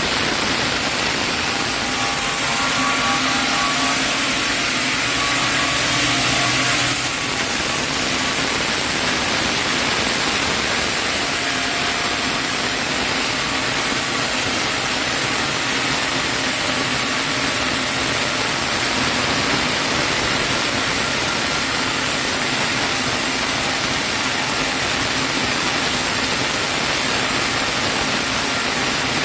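Sawmill saw running steadily while cutting through a chinaberry log: a loud, even hiss of blade in wood, with a faint higher whine in the first few seconds that changes about seven seconds in.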